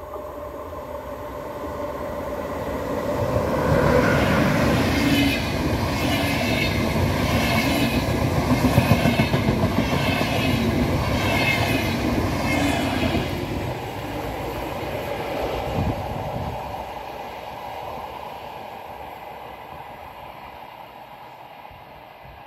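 Electric-locomotive-hauled VR InterCity train of double-deck coaches passing at speed: its rumble grows as it approaches, holds with a regular rhythm of wheel clatter as the coaches go by, then fades away.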